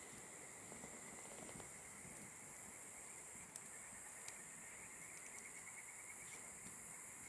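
Campfire burning quietly, with a few sharp pops from the wood, the loudest about halfway through, over a steady high hiss. A faint rapid chirping comes in about five seconds in.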